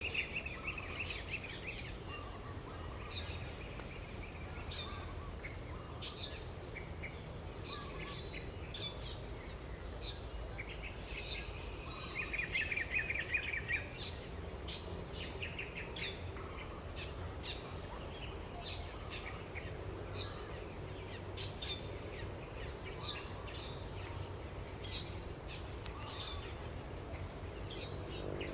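Steady high-pitched insect drone from crickets or cicadas, with scattered short bird chirps and a louder rattling trill about twelve seconds in.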